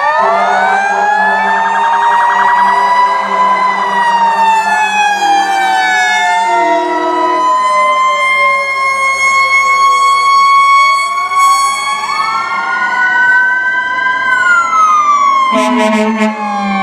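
Several fire-truck sirens wailing at once, their slow rising and falling pitches overlapping, over a steady low drone. A horn starts sounding near the end.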